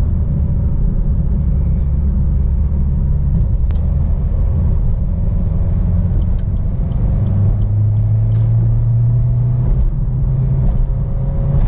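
Maruti Suzuki Baleno's 1.3 DDiS four-cylinder turbodiesel engine and tyres droning at speed in a steady low rumble; the engine note steps up in pitch about seven seconds in and holds there.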